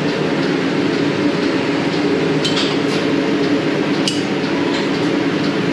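Steady machinery running, with a few light metallic clinks about two and a half, three and four seconds in.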